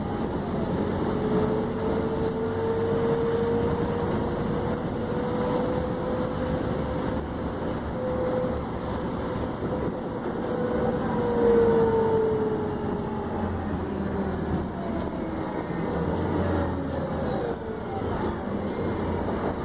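Scania K310UB 6x2 city bus running under way, its engine and drivetrain rumbling steadily. A whine rises slowly from about a second in, holds, then drops off about halfway through, as the bus pulls and then eases off.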